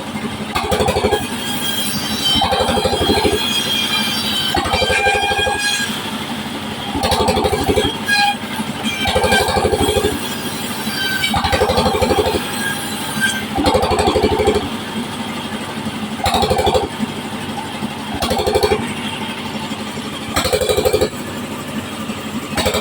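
Engine-driven sawmill saw running steadily, with a louder surge every two seconds or so as the blade cuts through waru wood.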